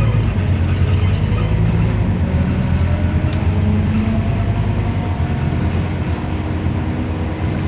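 Scania CN270UB city bus driving along, a steady engine and road rumble with faint tones that glide slowly up and down as the bus changes speed.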